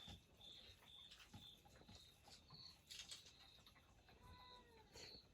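Near silence with a cat's faint meow about four seconds in, over a steady run of short, high chirps repeating about twice a second.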